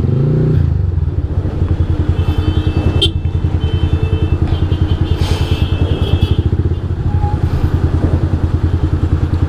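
Big motorcycle engine running at low revs in slow traffic, with an even, pulsing exhaust beat after a short blip of the throttle at the start. A sharp click sounds about three seconds in.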